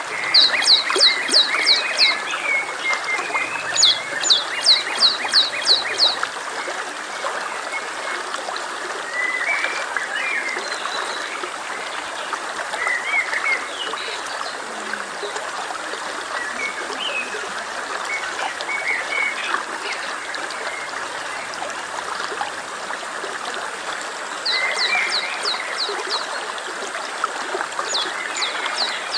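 Stream water running steadily over a bed of small chirps, with a bird singing phrases of five or six quick, high, evenly spaced notes, twice near the start and twice near the end.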